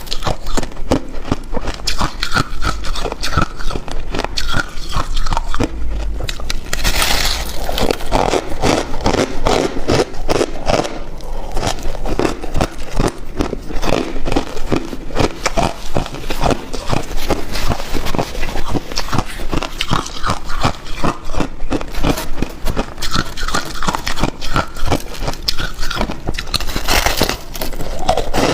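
Ice being bitten and chewed close to the microphone: a continuous run of rapid, crisp crunches and cracks.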